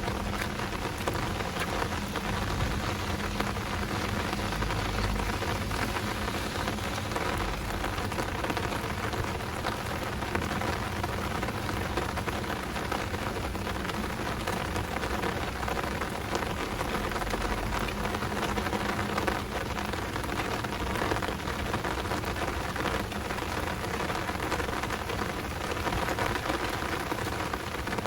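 Heavy downpour rain falling steadily, a dense even hiss of drops, with low rumbles swelling up twice, about five seconds in and again near eighteen seconds.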